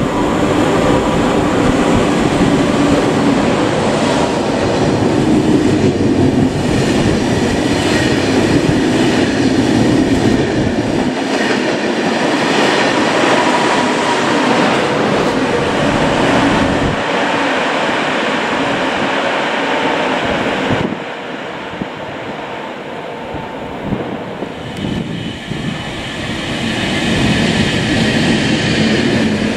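A TGV high-speed train running along a station platform, a loud steady rush of wheels on rail lasting about twenty seconds. The sound then drops away suddenly, and a red electric locomotive hauling passenger coaches grows louder as it approaches near the end.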